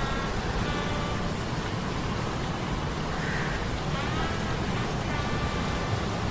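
Sea storm sound effects, a steady rain-like rush with a low rumble, under humming metal gears. The gears' whining tones come in near the start and again from about four seconds in, rising in pitch and then holding.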